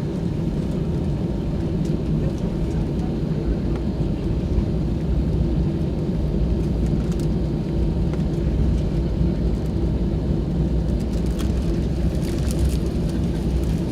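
Airbus A320 jet engines and airflow: a steady low rumble that holds level without rising or falling.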